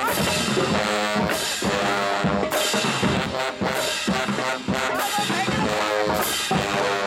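HBCU marching band playing: brass holding pitched notes over a drumline with bass drums and snares hitting a steady beat.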